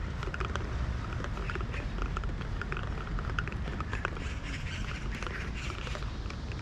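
Birds chirping with many short calls, over a steady low rumble.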